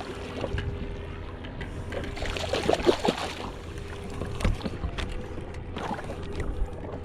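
Water splashing and lapping against a fishing kayak's hull, busiest about two to three seconds in, with a few light knocks later.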